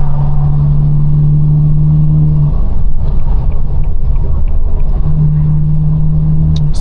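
Straight-piped, Stage 2 tuned BMW 428i's turbocharged four-cylinder running loud, heard from inside the cabin. A steady exhaust drone holds at one pitch for the first two and a half seconds, drops away, and returns at the same pitch about five seconds in.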